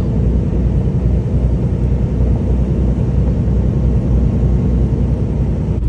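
Steady low rumble of a semi-truck's diesel engine, with running noise, heard inside the cab.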